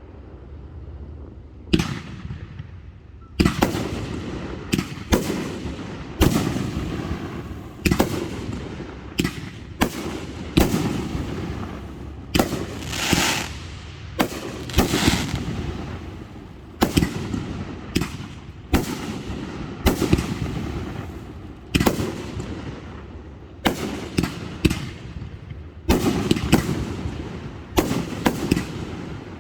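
Aerial fireworks display: shell bursts going off in rapid succession, a sharp bang every second or so, each trailing off in a rumble, with a rising hiss about halfway through.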